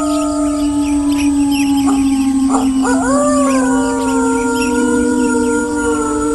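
Several wolves howling together in long, overlapping howls held at different pitches. A new howl rises and then falls about three seconds in. A faint, steady high trill and scattered chirps sit behind the howls.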